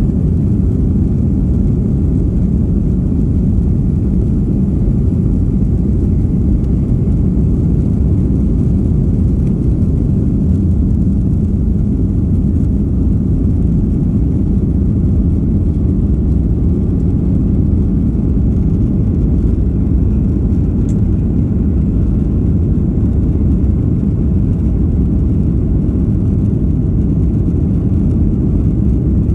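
Steady low rumble of an airliner's engines and airflow heard inside the passenger cabin, an even noise with no change in pitch or level.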